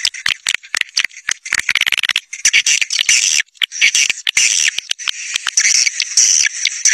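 A flock of swiftlets calling: rapid, dense high chirps and rattling twitters with brief gaps. It is the swiftlet-caller sound played to draw flocks of swiftlets in.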